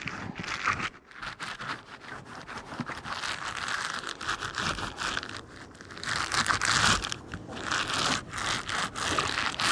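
Garden hose spraying water onto a beehive mite board to wash it down, a rough, crackling spatter that swells and fades as the spray moves over the board.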